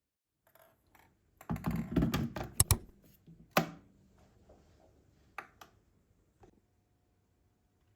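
A quick run of sharp clicks and knocks, like small hard objects being handled and set down, followed by a few separate clicks.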